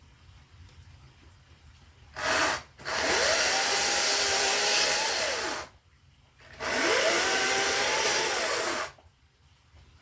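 Electric saw cutting firewood: a short blip of the trigger, then two runs of about two and a half seconds each. Each time the motor speeds up, holds while the blade cuts, then winds down, and it falls silent between runs.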